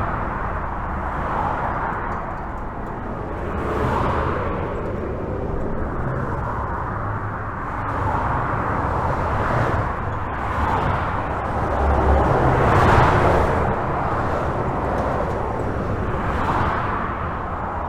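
Steady highway traffic heard from under a bridge: a continuous rush of tyre noise with a low rumble, swelling as individual vehicles pass over or by every couple of seconds.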